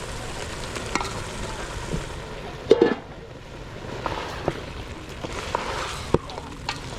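Food sizzling in a cooking pot while it is stirred, with scattered clicks and knocks. A louder clatter of utensil on pot comes about three seconds in.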